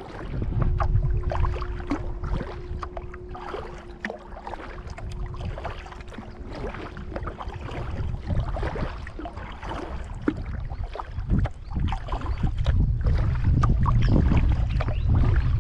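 Wind buffeting the microphone over water splashing and lapping around a kayak. A steady hum runs through about the first half, then stops.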